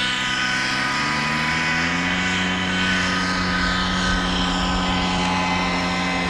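Miniature two-stroke model aircraft engine running with a steady buzzing whine, its pitch rising slightly over the first two seconds and then holding.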